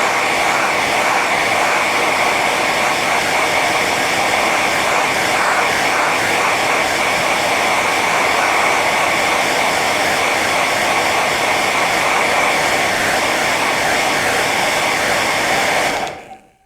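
Hair dryer running steadily on its high setting, a loud rushing of air with a steady high whine, fading out quickly near the end.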